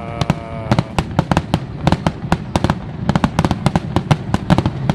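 Fireworks display going off in a rapid string of sharp bangs and cracks, about four or five a second, over a continuous low rumble.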